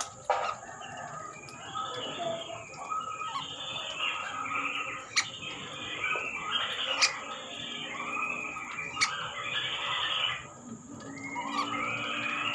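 Birds calling and chattering in a dense, overlapping stream, with a few sharp clicks and a steady thin high-pitched tone underneath.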